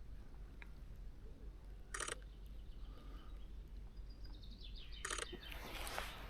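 Two short bursts of rapid camera shutter clicks, about three seconds apart, from a Sony A1 firing at a bird. Faint bird chirps sound between them, and a brief rush of noise comes near the end.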